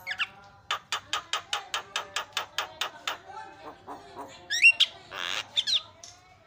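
Javan myna calling: a fast, even run of about twenty sharp repeated notes, then whistled notes gliding in pitch, a harsh rasp and another whistle near the end.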